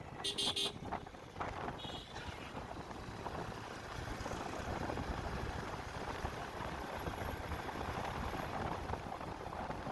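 A horn beeps once, briefly, about half a second in. Then comes the steady rush of wind and engine from a moving motorcycle, heard on board.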